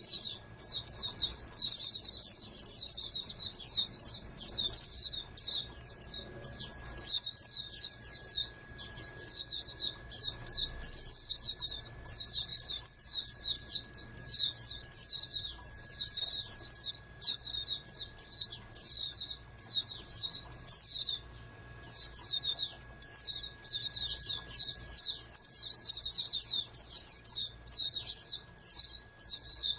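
White-eye (pleci) singing a fast, continuous twittering song of rapid high chirps, broken by a few brief pauses.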